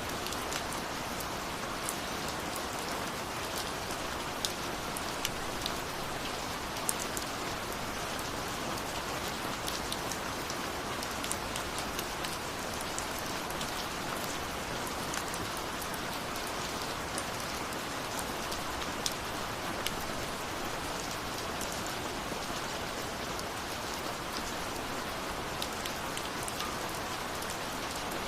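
Steady rain falling, a constant hiss with many distinct drops pattering and ticking close by.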